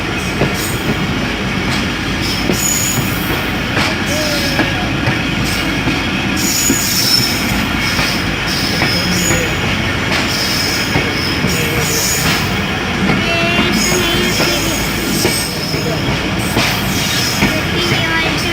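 Passenger train running on the rails: a continuous steady rumble of wheels and coaches, with repeated short high-pitched wheel squeals and occasional clacks over the track.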